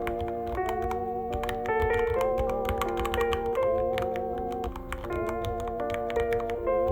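Irregular keystrokes typed on a Ducky One 3 mechanical keyboard, a quick run of separate clicks, over background music of held notes with vibrato.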